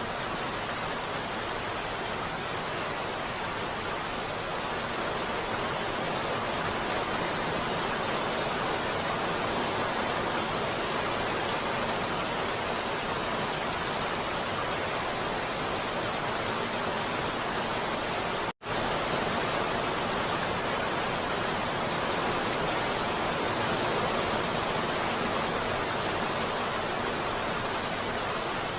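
Heavy rain falling as a steady, even hiss. It cuts out for an instant about two-thirds of the way through.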